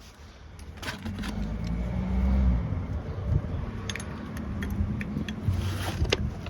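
Mercedes B200's diesel engine running, a steady low hum that builds over the first couple of seconds and then holds, with a few sharp clicks over it.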